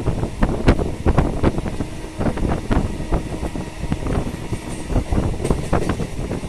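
Suburban electric local train running along the track: a steady heavy rumble with many irregular clattering knocks and rattles, and wind on the microphone.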